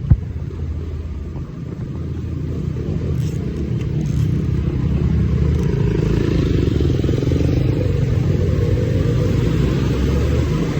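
250cc dirt bike engine running, getting louder over the first several seconds and then holding steady, with a sharp click right at the start.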